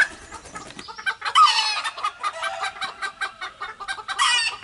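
Chickens clucking in a steady run of short calls, with two louder, longer calls about a second in and near the end.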